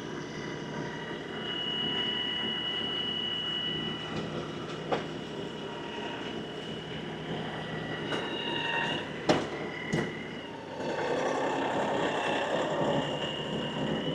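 Compact tractor running under work, with a steady high-pitched whine over the engine. A few sharp clanks break through, the loudest two close together just past the middle. Near the end the sound turns rougher and louder as the machine works harder.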